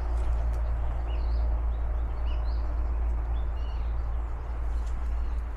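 Birds chirping, about half a dozen short calls, mostly in the first part, over a steady low rumble.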